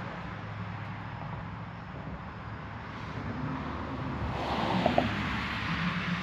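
Small scooter riding along a road: a steady low motor hum under rushing wind and road noise, with a louder swell of noise about four to five seconds in.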